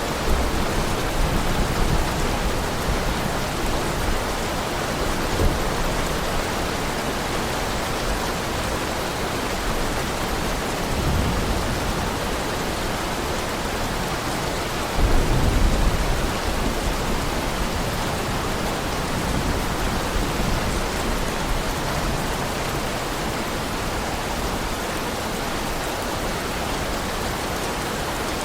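Heavy rain falling steadily, with low rumbles of thunder; the loudest rumble comes about halfway through.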